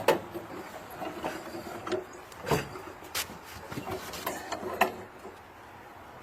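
Creaking and rubbing with a few sharp knocks as a Snapper riding mower is winched toward the edge of a truck bed.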